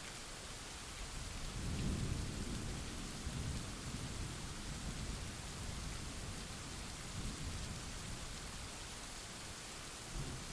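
Steady rain hiss with a roll of thunder that builds about a second and a half in, is loudest soon after, and rumbles on for several seconds before dying away, with a brief low rumble again near the end.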